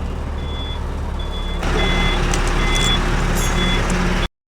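Truck reversing alarm beeping steadily, about once every 0.8 seconds, over a running engine that grows louder about a second and a half in. The sound cuts off abruptly near the end.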